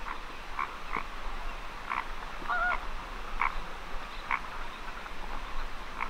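Wetland birds calling from a lagoon: short calls repeated at irregular intervals, with one longer wavering call about two and a half seconds in, over a steady low background.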